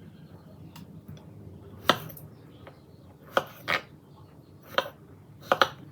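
Kitchen utensils knocking and clinking against bowls and dishes: about six separate sharp clinks, two of them close together near the end.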